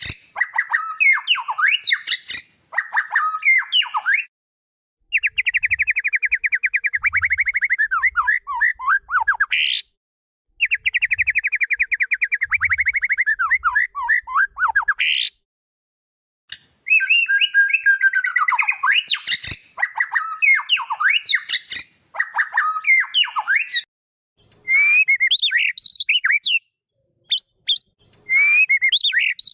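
White-rumped shama singing: loud phrases of varied whistled notes and two long, fast trills, separated by short pauses.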